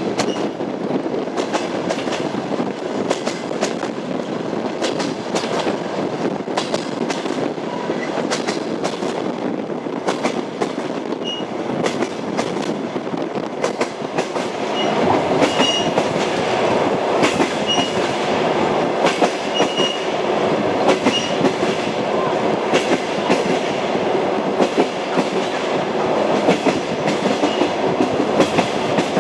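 Train running along the rails: a steady rumble with the clickety-clack of wheels striking rail joints, growing louder about halfway through.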